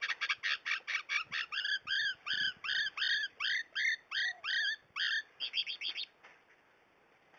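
A small bird singing a rapid string of short, high notes: first a fast run of clipped notes, then arched notes that rise and fall, about three a second, then a few quick notes before it stops about six seconds in.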